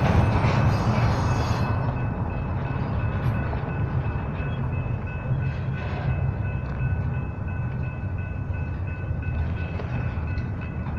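Double-stack intermodal freight cars rolling past on the rails: a steady low rumble of wheels, a little louder in the first two seconds, with a faint steady high-pitched squeal running through it.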